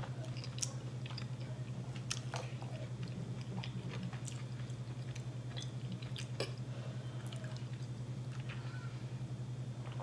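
Close-up chewing with wet mouth clicks and smacks, then drinking from a plastic bottle in the second half, all over a steady low hum.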